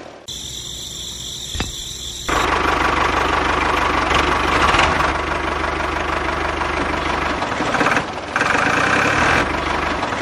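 Small motor of a home-built mini tractor running steadily, with a low hum under a noisy mechanical rattle. The sound changes abruptly near the start and dips briefly about eight seconds in.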